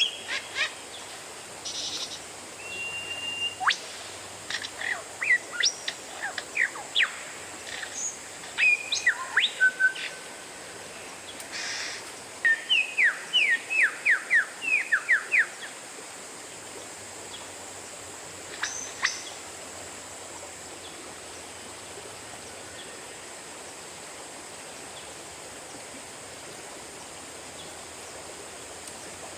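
Oriental magpie-robin singing a varied song of clear whistles and sharp sweeping notes, used as a lure call to set other magpie-robins singing. About twelve seconds in comes a fast run of a dozen or so falling notes. The song then stops, leaving one short call a few seconds later over a steady hiss.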